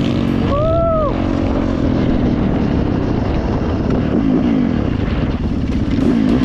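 Dirt bike engine running hard, its pitch rising and falling with the throttle, with a brief rise-and-fall tone about a second in.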